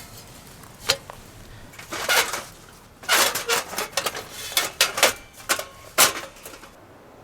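Irregular sharp clicks and light clatters of hard objects being handled, a few single knocks and then a dense run of them in the middle, stopping shortly before the end.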